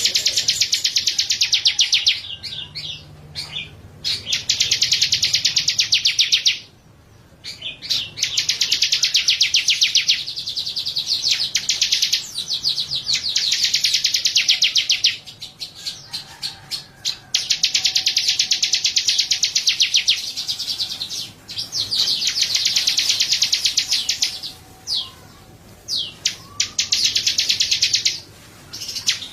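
A small songbird singing a series of long, very rapid high-pitched trills, each lasting two to three seconds, with short pauses between them.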